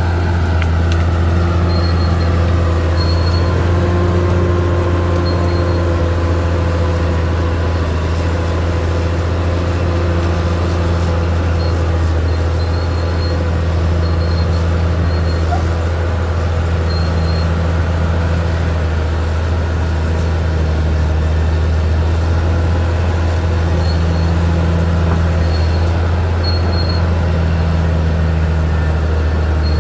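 Caterpillar D6R XL bulldozer's diesel engine running at a steady, heavy drone with little change in speed. Faint short high-pitched peeps come and go over it.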